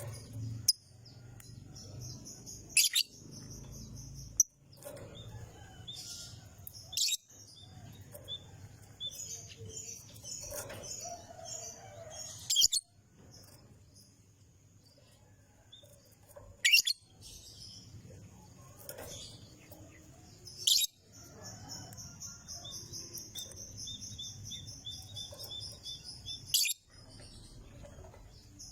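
Lovebird singing: long, high, rapid chattering trills broken by sharp, loud single chirps every few seconds, with a low steady hum underneath.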